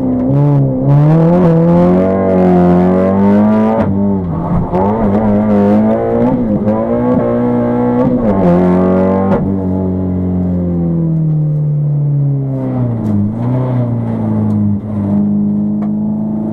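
Citroen C2 VTS's 1.6-litre four-cylinder petrol engine heard from inside the cabin while driven hard. The revs climb and drop repeatedly with sudden breaks for about the first nine seconds, then fall away and settle to a steady lower pitch as the car eases off.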